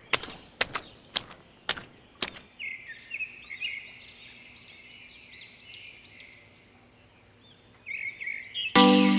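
Small birds chirping in a quick run of short calls. Before them, a few sharp clicks come about twice a second in the first two seconds. Music with bell-like mallet notes starts loudly near the end.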